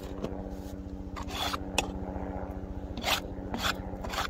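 A few short scraping strokes, with a sharp click just before two seconds in, as snow is cleared from beehive entrances. An engine hums steadily underneath.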